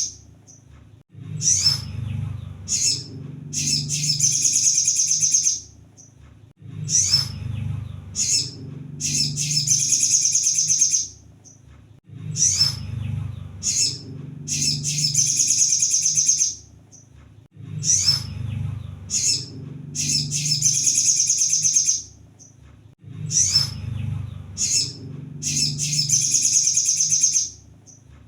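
Kolibri sogon (sunbird) song used as a lure call: rapid, high chattering trills about a second or two long, separated by short sharp single notes, the phrase repeating about every five to six seconds.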